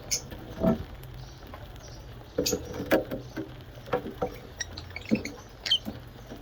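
Small pet parrots eating soft food: irregular beak clicks and pecking sounds, with a few short high chirps.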